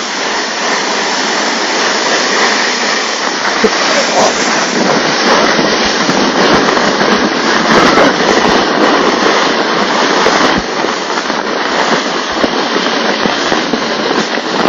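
Inflatable snow sled (air board) sliding fast over snow: a loud, steady rushing and scraping noise.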